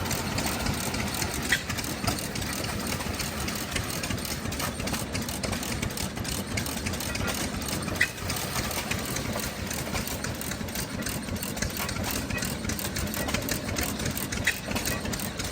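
Antique corn sheller and its small stationary engine running steadily, with a few sharp clicks from the machine.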